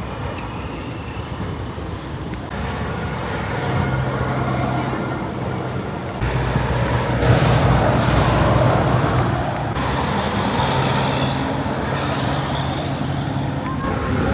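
Heavy trucks' engines running in road traffic, a steady low drone. The sound changes abruptly several times as different passing trucks follow one another.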